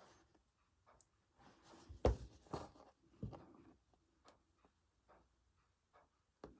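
Soft handling noises of hand embroidery: scattered light taps and rustles of thread and fabric, with a low thump about two seconds in.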